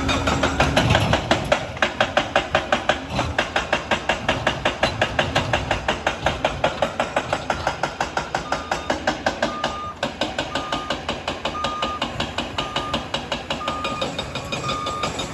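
Liebherr 746 crawler dozer's steel tracks clanking in a fast, even rhythm, about five clanks a second. From about eight seconds in, a reverse alarm beeps about once a second as the dozer backs up.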